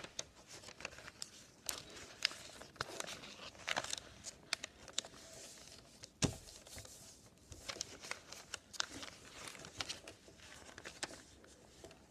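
A sheet of paper being folded and creased by hand, with rustling and many small sharp crackles, and one louder knock about six seconds in.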